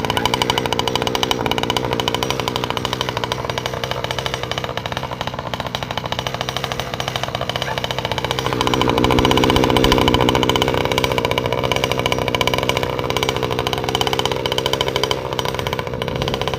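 49 cc two-stroke ATV engine running steadily on a test run of the newly fitted engine, with a brief rise in revs and loudness a little past halfway before it settles back.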